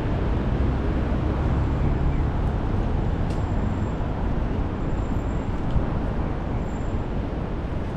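Steady traffic noise from a wet city road in the rain, under a constant low wind rumble on the microphone.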